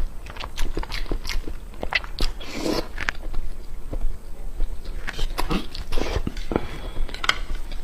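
A person chewing and biting food, with many sharp, irregular wet mouth clicks and smacks.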